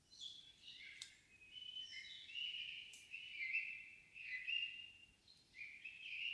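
Songbird singing in the evening forest: a continuous warbling song of quick, varied chirps and short held notes, with a few sharp clicks among them.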